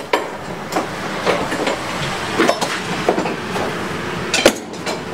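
Scattered metallic clinks and knocks of hand tools working on a water heater's copper water lines, the loudest knock about four and a half seconds in, over a steady hiss.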